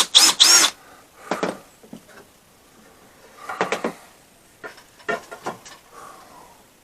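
A few separate knocks and clunks of wood and a drilling jig being handled and set down on a workbench, after the last words of speech in the first moment.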